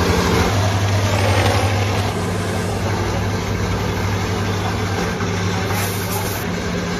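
Bike-wash equipment motor running with a steady hum over a continuous hiss of spray. The hum changes pitch slightly about half a second in.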